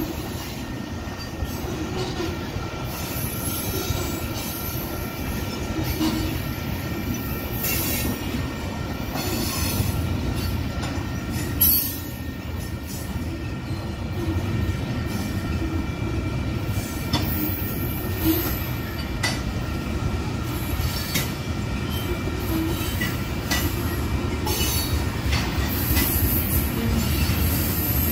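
Tank cars of a freight train rolling past: a steady rumble of steel wheels on the rails with a thin, steady high wheel squeal and scattered sharp clanks, the loudest about twelve seconds in.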